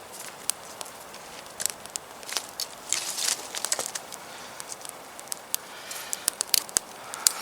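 Small campfire of damp wood crackling, with irregular sharp pops and snaps and a denser flurry about three seconds in.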